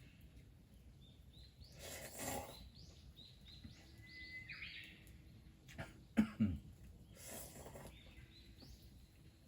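Small birds chirping in the background in quick series of short high notes, with one held whistle about four seconds in. A couple of brief noisy bursts come about two seconds and seven and a half seconds in, and a few sharp knocks with dull thuds come just past the middle.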